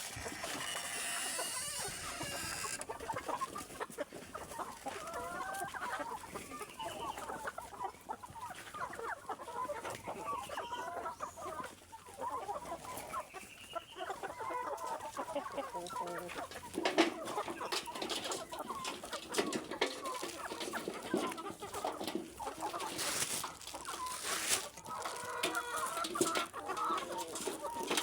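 Domestic chickens clucking, many short overlapping calls from a flock, with some sharp taps in the second half.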